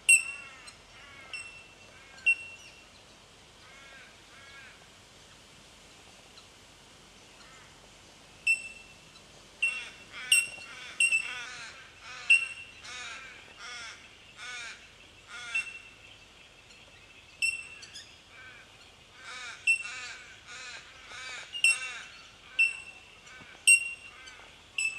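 Bell miners calling: short, ringing bell-like 'tink' notes repeated every second or so, with flurries of quicker, lower chattering notes mixed in, busiest from about ten to twenty-two seconds in.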